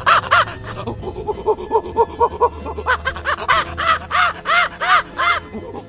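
Chimpanzee hooting calls, a rapid run of short rising-and-falling hoots that turns louder and higher-pitched about halfway through, as in a pant-hoot.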